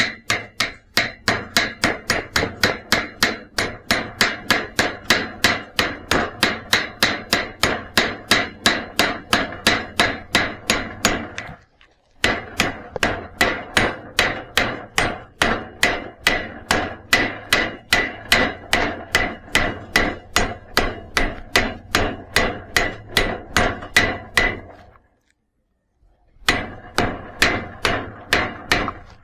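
Hammer striking steel in a fast, even rhythm of about four blows a second, the metal ringing between blows. The hammering pauses briefly twice.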